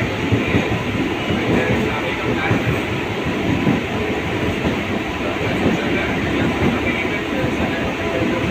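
Mumbai suburban local train running at speed, heard from inside the coach: a steady rumble of wheels on the rails with some clickety-clack.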